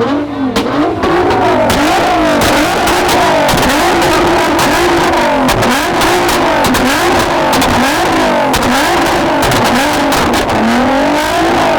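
Straight-piped Lamborghini Aventador SVJ V12 being revved hard over and over, the pitch climbing and dropping about once a second, with constant crackles and pops from the exhaust.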